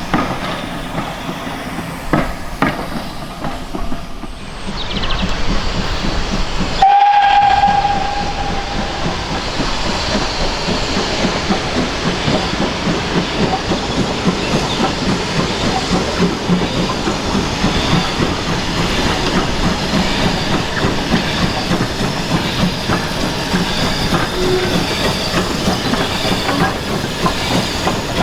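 Steam locomotive working a train, running steadily, with one short held blast on its steam whistle about seven seconds in.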